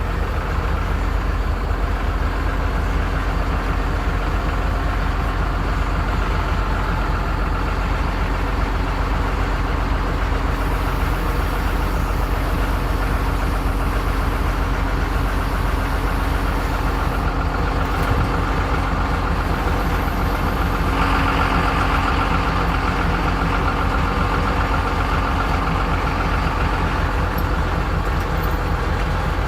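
Vehicle engine running steadily with an even, regular pulse, getting somewhat louder in the upper range about two-thirds of the way through.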